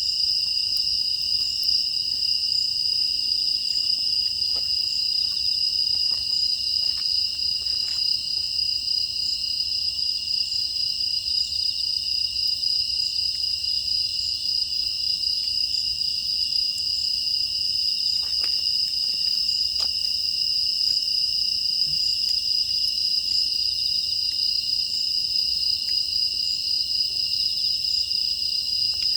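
A steady, high-pitched chorus of crickets and other grass insects trilling without a break, with a few faint scattered crackles from a wood fire.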